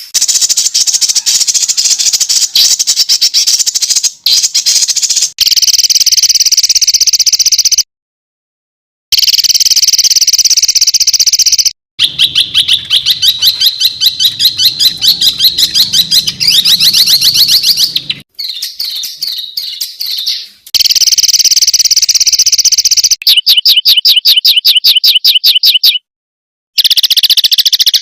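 Recorded songbird song used as masteran training material: loud, rapid, harsh repeated chirps and trills strung together in spliced segments. The segments change abruptly, with a few short breaks of silence between them.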